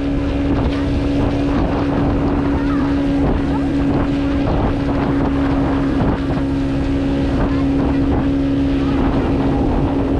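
Speedboat outboard engine running steadily at speed while towing a banana boat, with rushing water and wind on the microphone.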